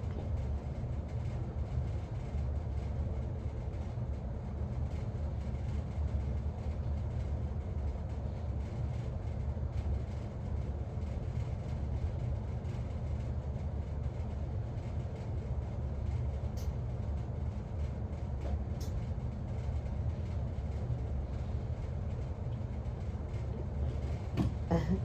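Steady low rumble with no clear pitch, with two faint short clicks in the second half and a brief louder sound near the end.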